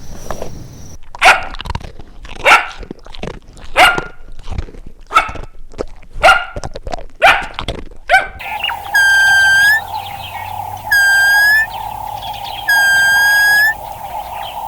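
A dog barking: about seven single barks, roughly one a second. About eight seconds in, the barking gives way to a steady hum with a loud, clear call of under a second repeating every couple of seconds.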